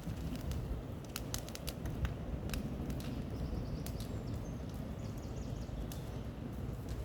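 Steady low rumbling outdoor noise with scattered sharp cracks, and a few faint high bird chirps in the middle.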